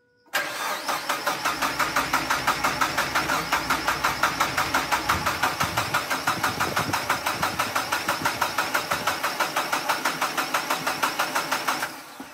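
Mazda MX-5's freshly installed replacement four-cylinder engine being cranked by the starter, pulsing evenly at about five beats a second without catching, then cut off abruptly after about eleven seconds. The owner suspects the fuel lines are connected the wrong way round.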